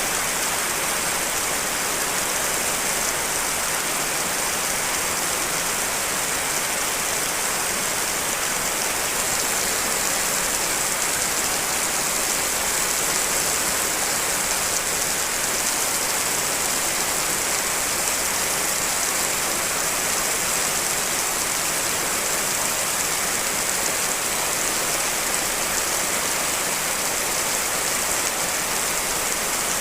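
Steady rain from several real rain recordings layered into one dense, even hiss that is brightest in the high end and does not change.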